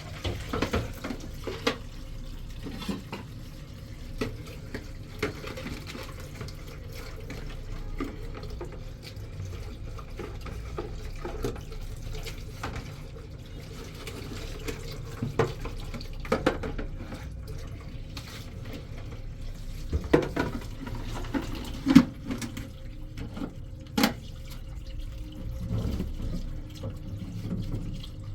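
Water running from a tap into a sink, with scattered clinks and knocks and two sharper knocks near the end.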